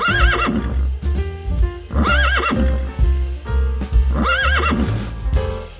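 Horse whinnying three times, about two seconds apart, each a short wavering neigh, over background music with a steady low beat.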